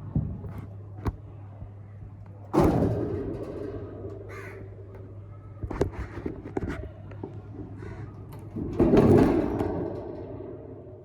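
Green parrot giving harsh squawking calls, the loudest about two and a half seconds in and again about nine seconds in, with a shorter, higher call in between.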